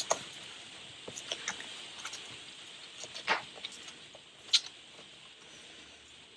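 Paper being handled and folded: light rustles and small taps, with two sharper crinkles, one a little past halfway and another about a second later.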